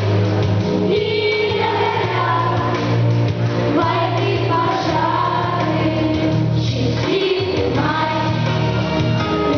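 A song sung by several voices together over an instrumental backing track with a steady bass line.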